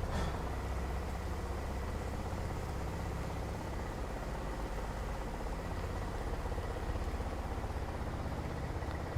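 Low, steady hum of an idling vehicle engine, with one brief click just after the start.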